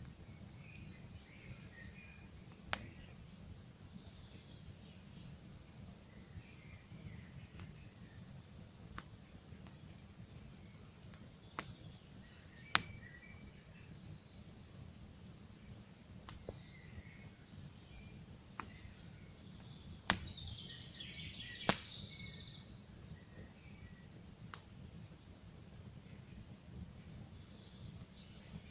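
Campfire crackling with a steady low hiss and a sharp pop every few seconds, the loudest about halfway through and again later. Small birds chirp over it in quick repeated phrases.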